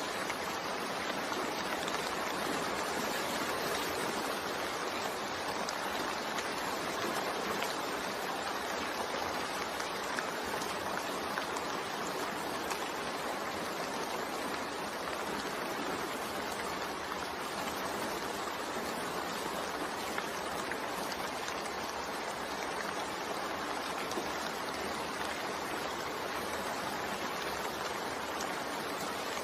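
Steady rain falling, an even hiss of drops with no distinct splashes or breaks.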